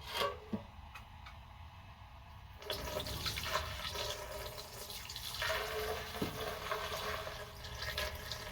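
White vinegar pouring from a jug into a steel motorcycle gas tank, a steady splashing rush that starts about three seconds in and keeps going as the tank fills, with a short click just before. The vinegar is being put in to eat the rust inside the tank.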